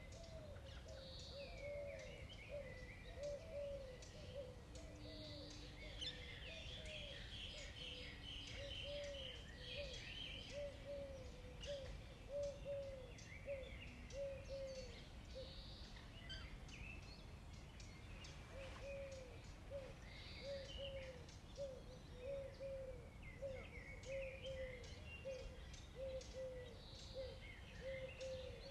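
Outdoor birdsong: one bird repeats a low note about twice a second in a long even series that pauses briefly about halfway through, while other birds chirp higher. Quick close clicks of a cat crunching dry kibble run alongside.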